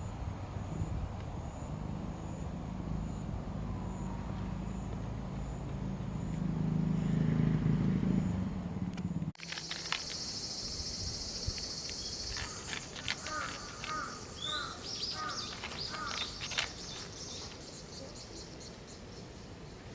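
Outdoor ambience. A low rumble runs for about nine seconds and swells near its end. After an abrupt cut comes a steady high hiss with short repeated chirps and scattered ticks, fading over the last few seconds.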